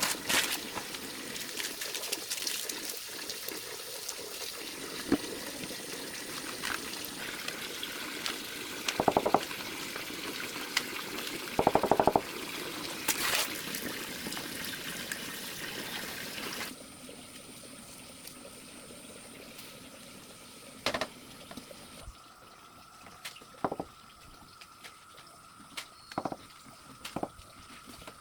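Water running or pouring steadily, with scattered knocks. About two-thirds of the way through it cuts off suddenly to a quieter background with a faint steady tone and a few sharp clicks.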